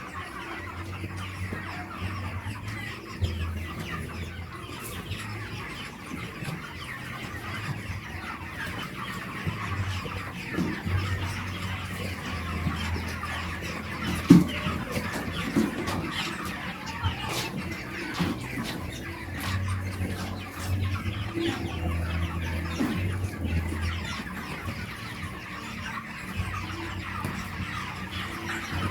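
A flock of broiler chickens clucking and chattering continuously, with a low hum coming and going and a single sharp knock about halfway through.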